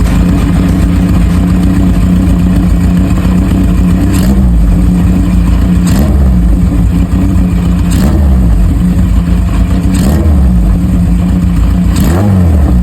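Motorcycle engine idling through its exhaust, with short throttle blips about every two seconds, five in all, each revving up and dropping straight back to idle.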